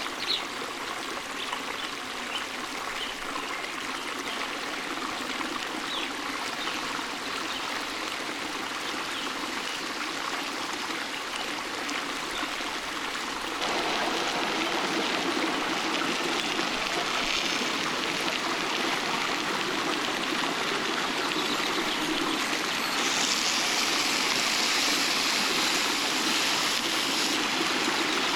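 Forest stream running steadily over rocks, a continuous rushing of water. It gets louder in a step about halfway through and again near the end. A few faint bird chirps come in the first seconds.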